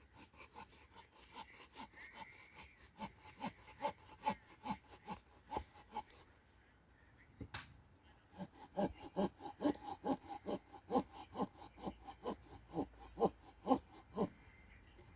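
Hand saw cutting through wood in steady back-and-forth strokes, about two to three a second, pausing briefly about halfway with a single sharp click, then resuming with quicker, louder strokes.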